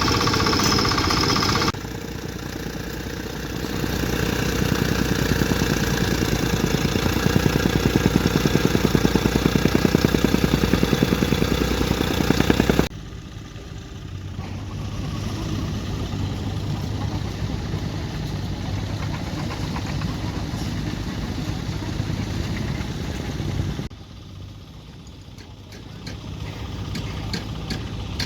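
Heavy diesel earthmoving machinery, such as a bulldozer, running at work. The sound changes abruptly about 2, 13 and 24 seconds in. Between about 4 and 12 seconds the engine has a fast, even pulse.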